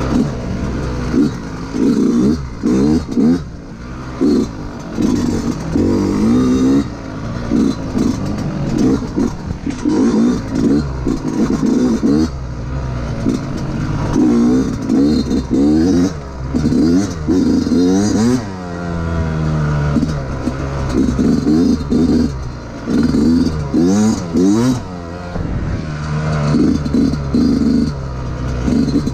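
Yamaha YZ125's two-stroke single-cylinder engine being ridden, revving up in repeated short bursts and dropping back each time the throttle is closed.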